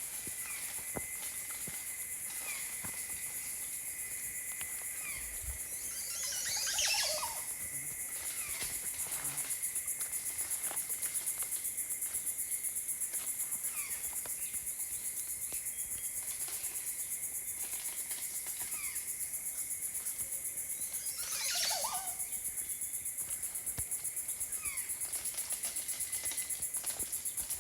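Tropical rainforest ambience: a steady high, pulsing insect chorus with a constant thin whistle-like tone beneath it, and scattered short bird chirps. Twice, about a quarter of the way in and again about three-quarters through, a louder call falls steeply in pitch for about a second.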